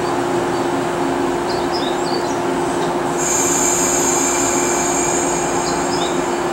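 Shinano Railway 115-series electric train standing at the platform with a steady low hum from its on-board equipment. About three seconds in, a high-pitched metallic squeal from the train starts and holds steady.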